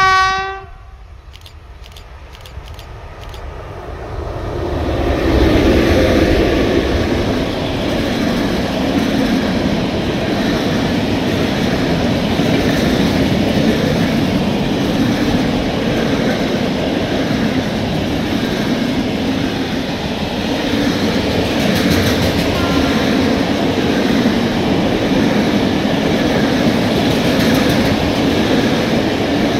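PKP Cargo ET42 electric freight locomotive sounds a short horn blast as it approaches. It passes with a rising rumble about five seconds in, followed by a long train of open freight wagons rolling by with a steady rumble of wheels on rails.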